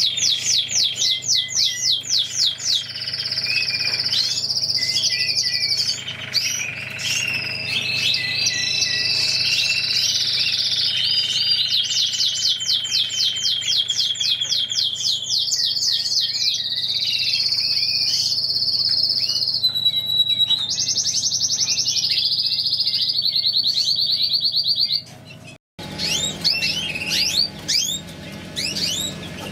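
Mosaic canary singing a long song of rapid trills and repeated whistled phrases that change every few seconds. About 25 seconds in the song breaks off suddenly and is followed by shorter, scattered chirps.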